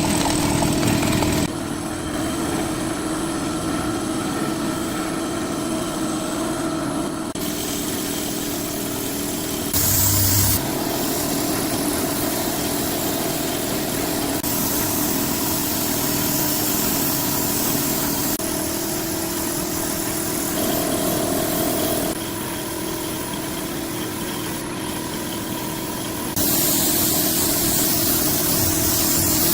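A machine running steadily with a low hum, the sound shifting abruptly several times as the footage cuts between clips.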